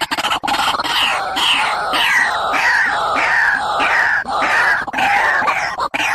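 A bird calling over and over, a run of loud, shrill falling notes at about two a second.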